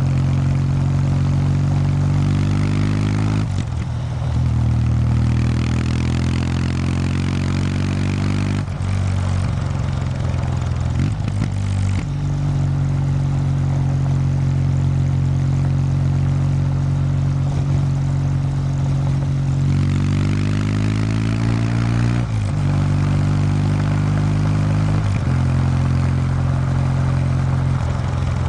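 Kawasaki W800 Street's air-cooled 773 cc parallel-twin running through its stock exhaust while being ridden: a steady engine note that breaks off briefly several times, as at gear changes, and rises in pitch as it pulls harder about twenty seconds in.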